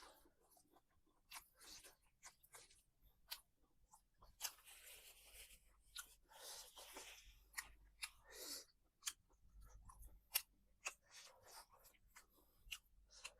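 Faint eating sounds: chewing and crunching, with many sharp clicks and a few longer, softer noises in between.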